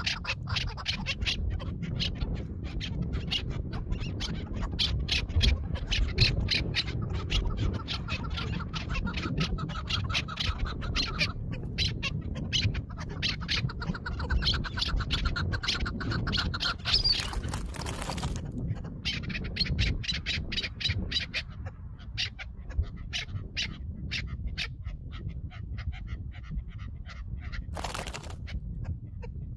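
Chukar partridge calling: long runs of rapid, repeated clucking notes with short pauses between runs, over a low rumble. Two short bursts of noise come near the middle and near the end.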